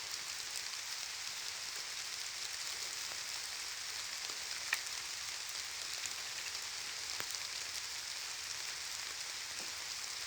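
Steady rain falling, an even hiss with scattered small drop ticks and one sharper tick about halfway through.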